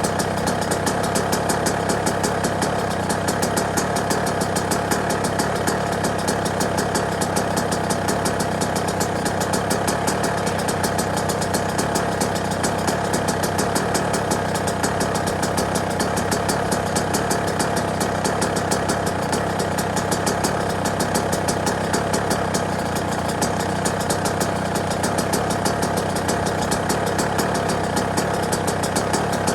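Yamaha YZ125 two-stroke single-cylinder motocross engine idling steadily, its firing strokes coming as a rapid, even stream of pulses.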